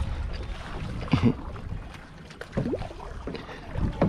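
Water splashing and lapping around a kayak as it is paddled, with gusts of wind buffeting the microphone underneath.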